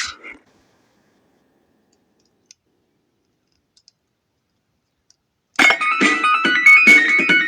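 A few faint clicks in near silence, then about five and a half seconds in a loud electronic tune of quick, stepping notes starts from the speaker of a lightsaber's CFX sound board as a sound bank is selected.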